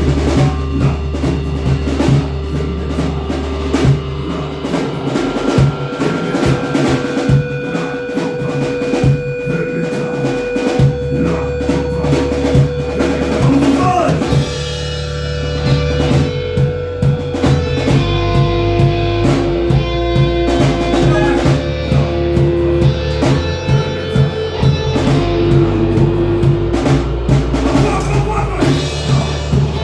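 Heavy metal band playing live: electric guitars over bass and a pounding drum kit, with long held guitar notes.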